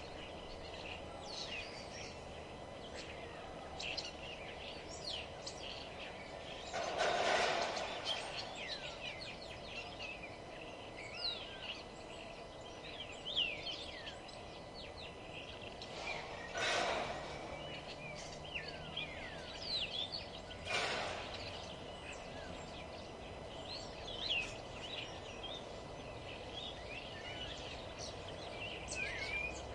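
Outdoor birdsong: many small birds chirping and singing in short, quick phrases. Three louder, rough sounds of about a second each cut in about a quarter, halfway and two-thirds of the way through.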